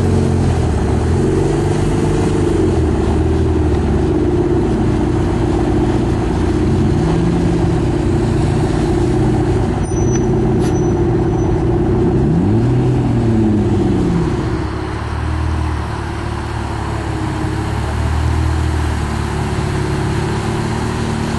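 Several car engines revving together in repeated blips, their pitches rising and falling and overlapping.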